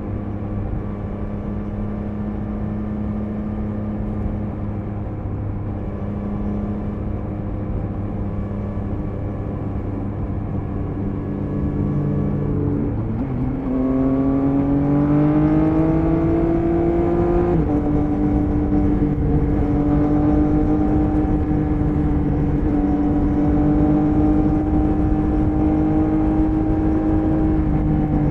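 Triumph Speed Triple 1050 RS's inline three-cylinder engine under way at cruising speed, running steadily. About 13 seconds in it gets louder and climbs in pitch as the bike accelerates, drops a step at a gear change about 18 seconds in, then holds steady at the higher level.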